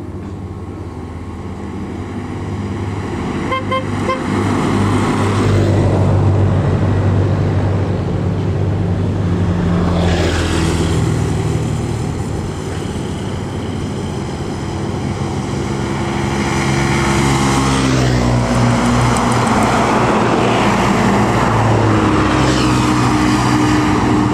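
A large three-axle intercity coach passes close by on the highway. Its engine and tyre noise builds to a peak about ten seconds in. Another heavy vehicle follows a few seconds later, and a horn sounds as they go by.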